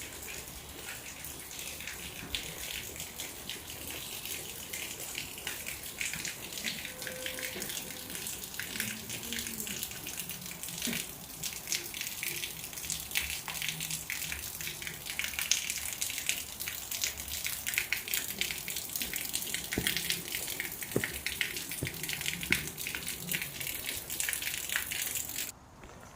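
Heavy rain falling, a dense crackle of drops that grows a little louder about halfway through and then cuts off abruptly near the end.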